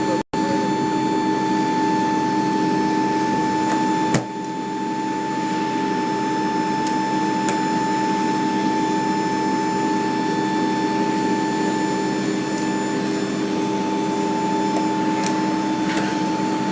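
Steady whining hum of Boeing 727-200 turbine machinery running, with several held tones over a rushing noise, and a single sharp knock about four seconds in.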